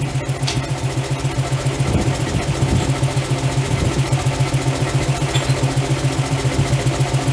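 Forging machinery running with a steady, rapid low pulse, about five or six beats a second.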